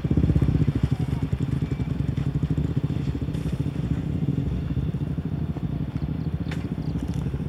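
Motorbike engine running steadily at low revs, its even firing pulse unchanging, with a few faint clicks late on.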